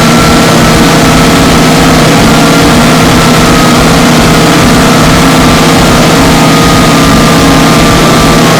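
Harsh noise (noisecore): a dense, heavily distorted wall of noise at full loudness, with a steady low hum and a few faint held pitches running through it.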